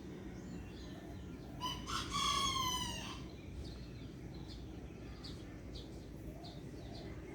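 A rooster crows once, a call about a second and a half long that drops in pitch at its end. A few faint short bird chirps follow over a low steady background hum.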